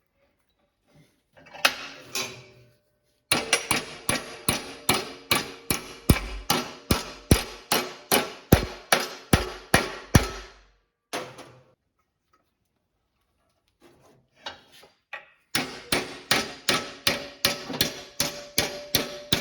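Forging hammer striking steel on an anvil in a steady run of about three blows a second, the anvil ringing under each blow. After a pause of a few seconds a second, quicker run begins, as a forged drawer handle is shaped.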